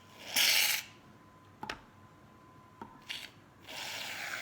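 Aerosol can of shaving cream dispensing foam into a glass jar: two hissing spurts, the first short and loud, the second longer near the end, with a few light clicks of handling between.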